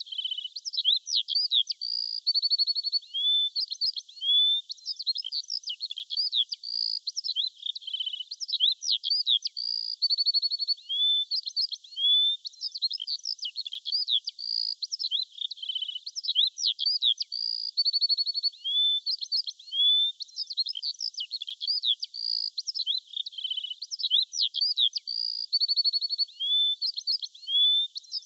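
Songbirds chirping and singing without pause: a dense mix of quick chirps, short whistles and trills, all high-pitched with no low sound beneath. The same stretch of song repeats about every eight seconds, as a loop.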